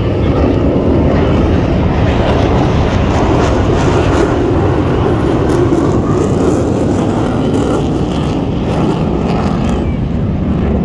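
Jet aircraft engines rushing loudly as an aircraft passes low over the airfield, swelling over the first few seconds and easing off a little toward the end.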